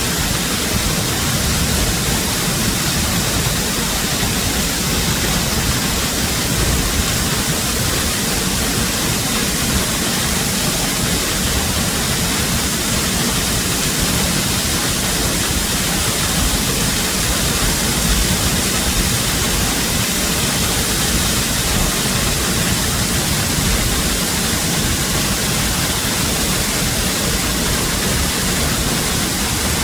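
Waterfall: a steady, loud rush of falling water, with no breaks.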